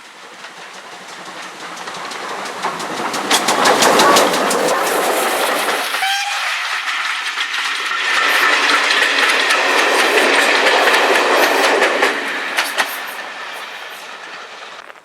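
A train passing close by, its wheels clattering rhythmically over the rail joints. The noise builds to a first peak about four seconds in, with a short rising squeal just after six seconds. It holds loud again from about eight to twelve seconds, then fades away.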